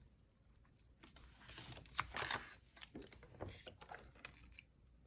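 Paper banknotes and envelopes rustling as they are handled, in soft irregular crinkles with a louder rustle about two seconds in.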